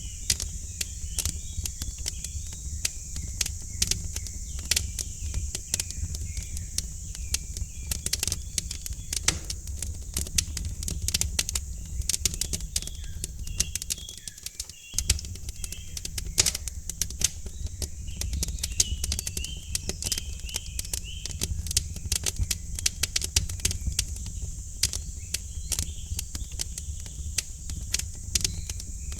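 Wood fire crackling in a fireplace, with dense, irregular pops and snaps over a steady low rumble. Small birds chirp faintly at times, with a short run of chirps about two-thirds of the way through.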